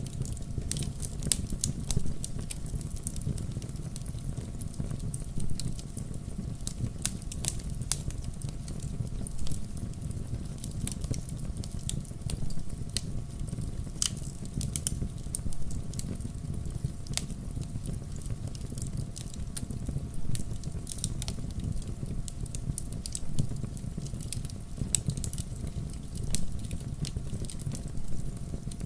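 Wood fire crackling and popping, with frequent sharp snaps over a steady low rushing sound.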